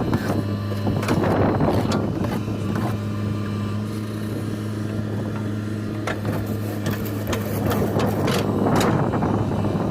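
JCB 3DX backhoe loader's diesel engine running steadily, getting louder for a second or so twice as it works, with several sharp knocks.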